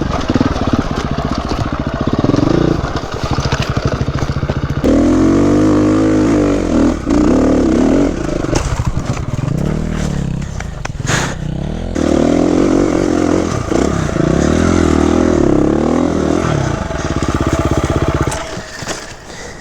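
Dirt bike engine revving up and down repeatedly under changing throttle, as on a rough trail section. There is a sharp knock about 11 seconds in. The engine sound falls away near the end.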